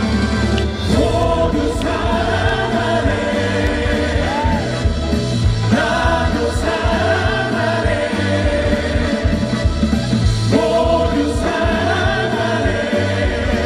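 Live amplified band performance with several voices singing together in long held notes over a steady beat.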